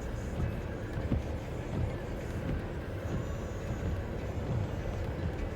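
Steady low rumble of a vehicle in motion, with no clear changes.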